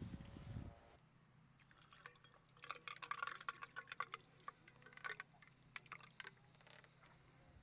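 Small wood campfire crackling faintly, with scattered irregular pops and ticks.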